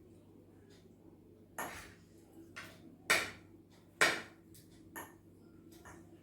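Eating utensils clinking against dishes: about five separate sharp knocks, the loudest two about three and four seconds in.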